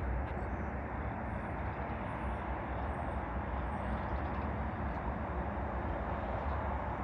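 CSX freight train moving past with a steady rumble and rolling noise.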